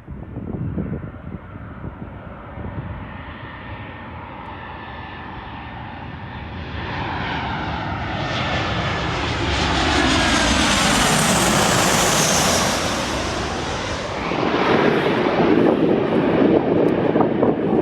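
Boeing 737-800's CFM56 turbofan engines as the jet flies past on its landing approach, a rushing whine that grows louder and higher, peaks about ten to thirteen seconds in with sweeping tones as it passes closest, then gives way to a louder, rougher rumble near the end.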